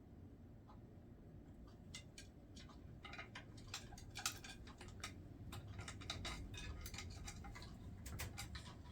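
Irregular light clicks and taps, sparse at first and busier from about three seconds in, typical of an African grey parrot's beak and claws gripping and clambering over a hard chew toy.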